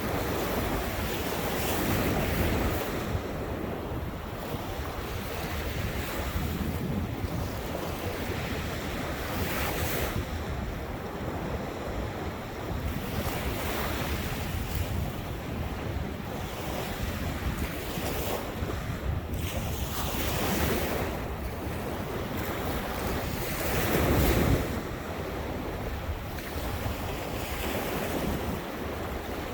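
Ocean surf washing onto the shore, swelling and easing as each wave breaks every few seconds, with wind buffeting the microphone.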